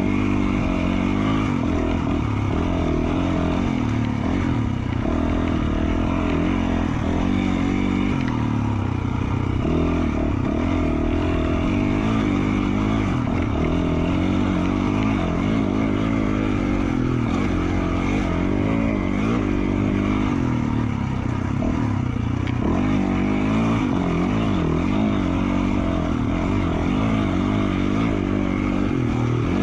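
2020 Yamaha YZ450F's single-cylinder four-stroke engine, with an FMF Q4 slip-on exhaust, running under a rider's throttle: the revs rise and fall again and again as the dirt bike is ridden along a trail.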